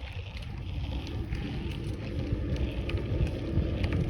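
Wind rumbling on the microphone while cycling, with road noise, growing steadily louder.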